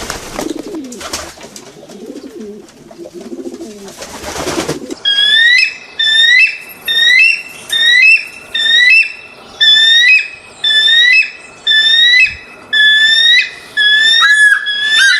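Pigeons cooing low and wavering over a noisy background. About five seconds in, a bird starts a run of loud, high whistled calls, about one a second, each bending up and then down.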